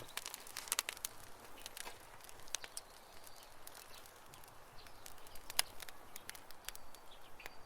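Campfire crackling: irregular sharp pops and snaps of burning wood over a low hiss, with one louder pop about five and a half seconds in.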